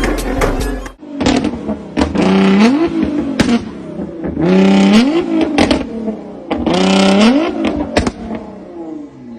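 Modified car's engine blipped three times while standing, each rev rising in pitch and falling back, with sharp cracks and pops from the exhaust as the revs drop.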